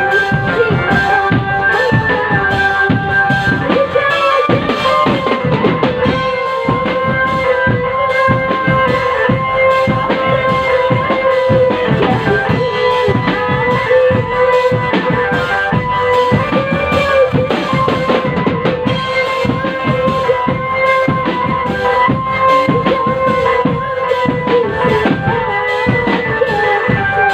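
Indonesian drum band playing: snare and bass drums beating a dense, steady rhythm under a held melody line.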